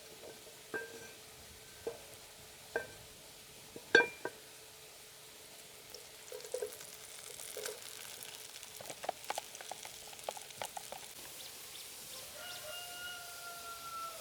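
Cookware clinking four times, the loudest about four seconds in. Then comes a stretch of crackling and sizzling, typical of food frying in a pan.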